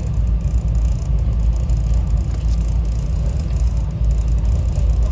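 SEPTA Regional Rail train running, heard from on board as a steady low rumble.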